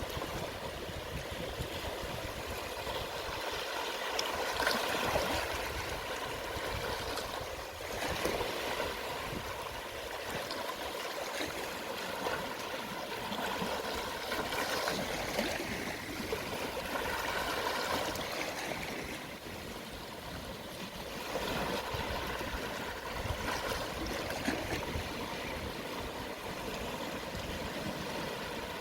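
Small, gentle sea waves washing onto a shallow beach at low tide, each swelling and fading every few seconds.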